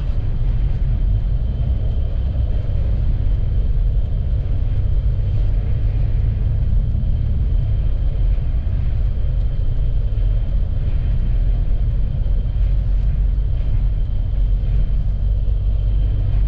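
Steady low rumble of a vehicle driving, engine and tyre noise with an even hiss of wind over it.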